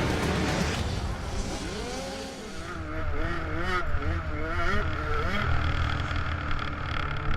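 Motocross dirt bike engine revving up and down over and over, its pitch rising and falling about twice a second.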